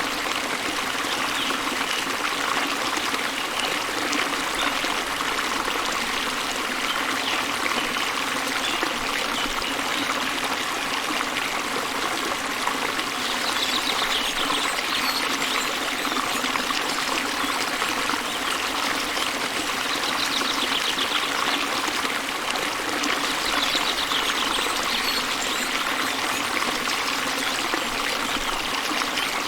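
Small waterfall splashing into a river, with the water running steadily. A bird's fast, high trill comes in about halfway through, again some seconds later, and near the end.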